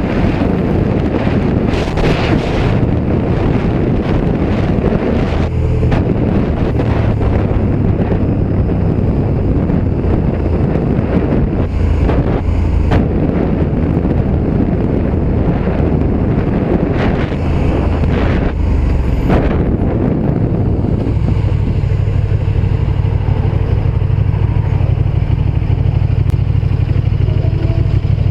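KTM 1290 Super Duke R Evo's V-twin engine running under way, with wind rushing on the microphone. About 21 s in the wind noise falls away and the engine settles to a steady low note as the bike slows.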